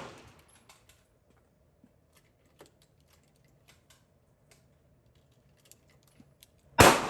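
Small, irregular metallic clicks of pistol cartridges being pressed into a magazine by hand, then a single loud gunshot near the end with a short echoing tail.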